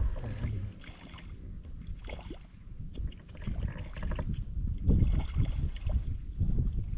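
Irregular sloshing and splashing of shallow floodwater, in uneven surges that grow louder again about two-thirds of the way through.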